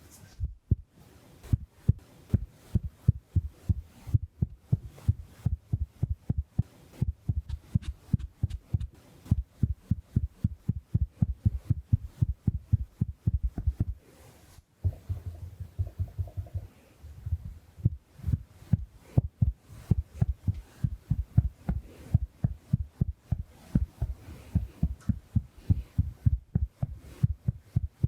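Makeup sponge patting rapidly against the microphone, soft low thuds about four a second, with a brief pause about halfway through.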